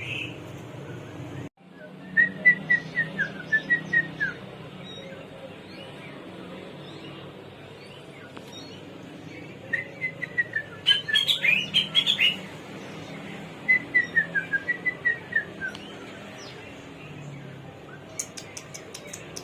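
Caged hwamei (garugiwa) singing: three phrases of quick, slurred whistled notes, the middle one climbing higher, over a steady low background hum. A rapid run of faint high ticks comes near the end.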